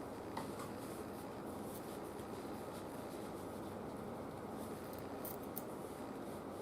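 Faint light rubbing and small handling clicks from a part being wiped clean by hand, over a steady low hiss.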